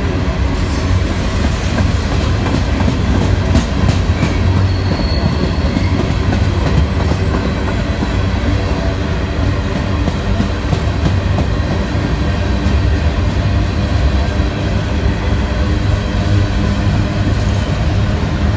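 Freight train cars rolling past close by: a steady, loud rumble of steel wheels on the rails, with a few light clicks along the way.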